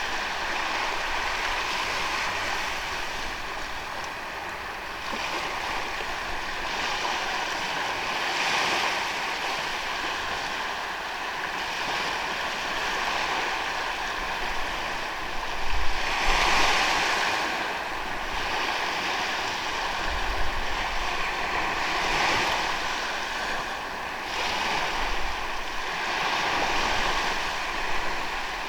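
Ocean waves breaking and washing up on a sandy beach, surging every few seconds, with the largest wash about sixteen seconds in.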